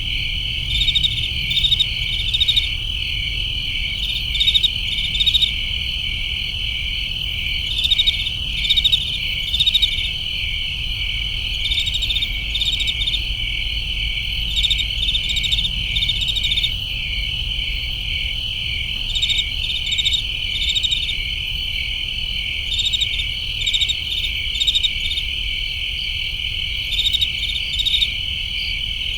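Crickets chirping in a dense chorus: a continuous high trill with louder pulsed chirps recurring every second or two, over a faint low rumble.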